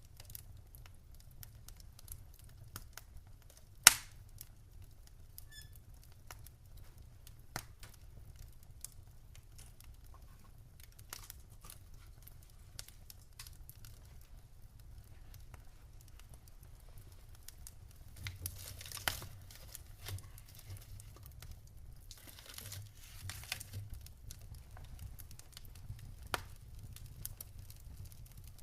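Wood fire crackling in a fireplace: irregular small clicks and pops, with one loud pop about four seconds in, over a low steady rumble of the flames, and busier bouts of crackling twice in the second half.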